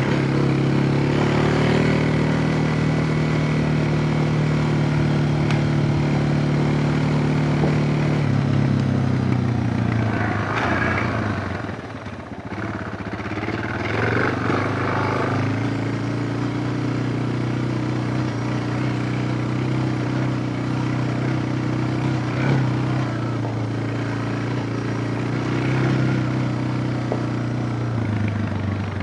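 Suzuki DR650's single-cylinder engine running under way at a steady pitch; the engine note drops off about ten seconds in, then picks up again and holds steady.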